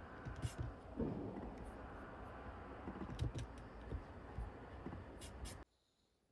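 Indoor room noise with scattered light clicks and soft knocks, cutting off suddenly a little before the end.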